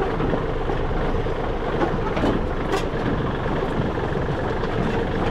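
Tractor engine running steadily with a constant hum, a couple of light clicks a little over two seconds in.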